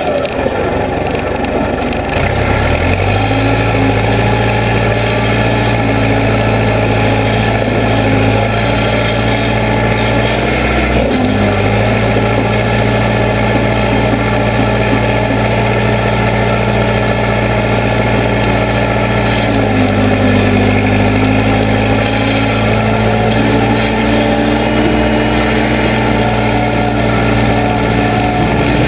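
Case 580B backhoe engine running steadily, with its speed stepping up about two seconds in and shifting a few more times as the machine works.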